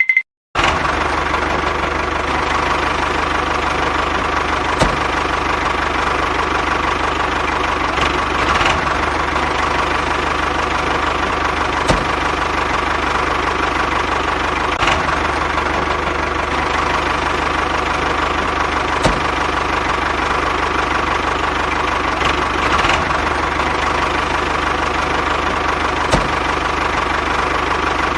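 Small motor of a homemade miniature tractor model running steadily with a constant whine, with a few sharp clicks scattered through it.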